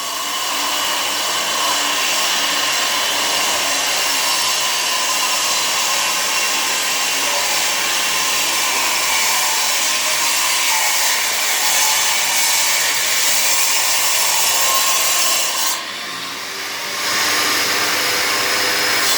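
A power tool running steadily under load on a renovation job, dropping off for about a second near the end and then picking up again.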